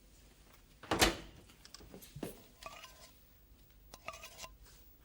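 Handling noises: a sudden loud clatter about a second in, then two short squeaks.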